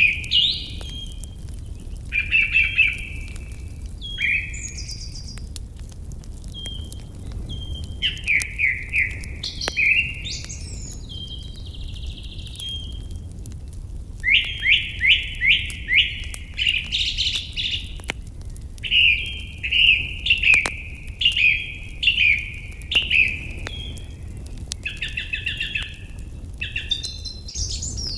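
Songbirds singing, phrase after phrase of quick repeated chirping notes, with the busiest run in the second half. Underneath is a steady low rumble with faint scattered clicks.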